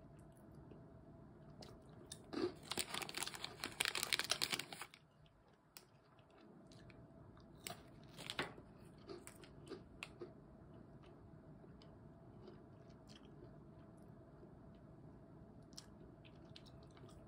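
Crunchy chewing of a Maltesers chocolate ball, its airy malt centre crackling in a dense run for about two and a half seconds. A few scattered crunches and clicks follow.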